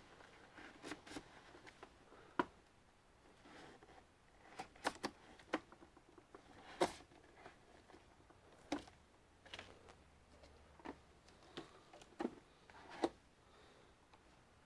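Irregular light clicks and taps of small plastic and metal computer parts and tools being handled, a dozen or so scattered sharp ticks with quiet between them.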